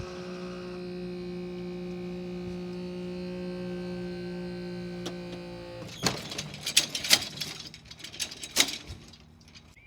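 Level crossing barrier's hydraulic pump motor humming steadily as the booms are raised. It cuts out about six seconds in, followed by a few seconds of loud, irregular clattering knocks.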